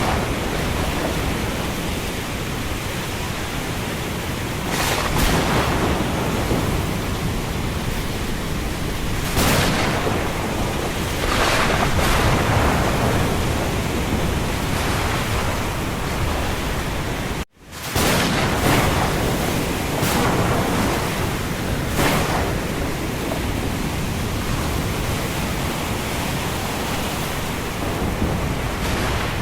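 Thunderstorm ambience: a steady rush of wind and rain with several sudden louder surges of wind or thunder. The sound drops out for a split second about seventeen seconds in.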